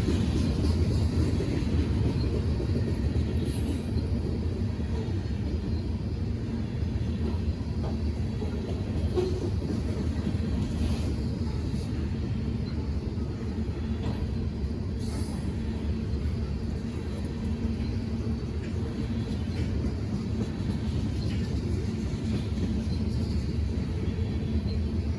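Train rolling past with a steady low rumble and a few faint clicks along the way.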